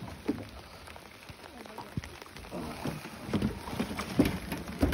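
Rain falling, an even hiss with many scattered sharp taps of drops and a few faint knocks.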